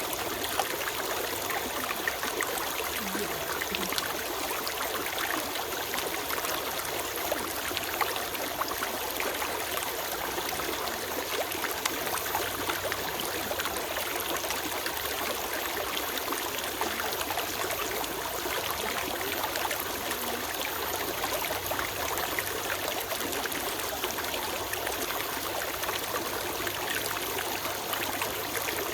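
A small stream running and trickling over stones, a steady rush of water with fine splashes and gurgles.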